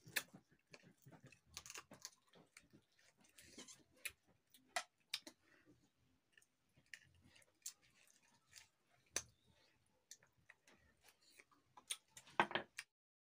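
Soft, close-up chewing and wet lip smacking as a man gnaws on a piece of chicken on the bone with his fingers, with irregular small clicks. There is a louder cluster of sounds near the end.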